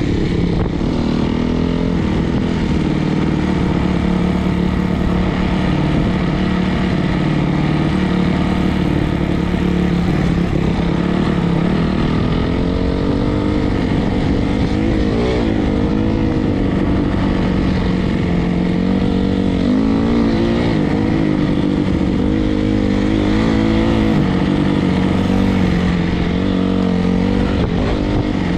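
Single-cylinder four-stroke dirt bike engine running continuously, steady at first, then rising and falling in pitch with throttle changes through the second half.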